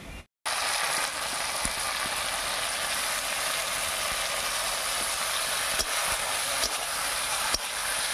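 Grated tomato frying in hot mustard oil with browned onions in a kadai, a steady sizzling hiss that starts about half a second in, with a few light clicks of the metal spatula stirring against the pan.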